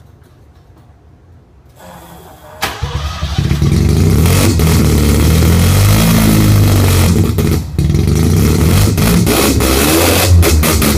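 Mazda RX-7's bridgeported 12A rotary engine, fed by a Holley carburettor and running through a header and performance exhaust, starting up about two seconds in and then running loud and revving, with a brief dip in the middle. Sharp pops come through near the end.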